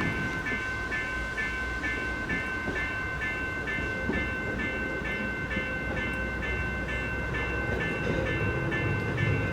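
Electronic railway warning signal ringing in a steady repeating pattern, about two pulses a second over a held high tone, with a low rumble underneath.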